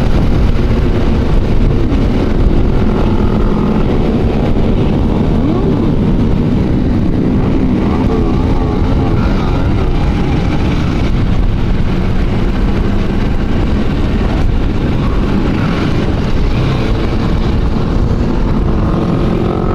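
Motorcycle engines and exhausts running steadily on the move, several bikes together in a large riding group, with engine pitch now and then rising and falling as riders open and close the throttle.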